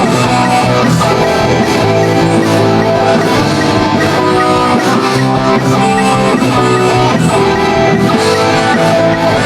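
Live band playing an instrumental passage, with strummed guitar to the fore and no singing.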